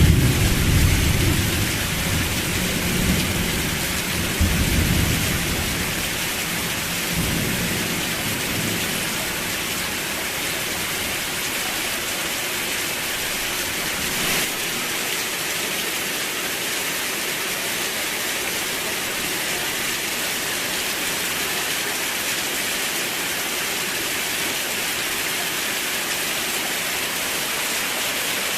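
Steady heavy rain, with a low rumble of thunder at the start that dies away over the first several seconds.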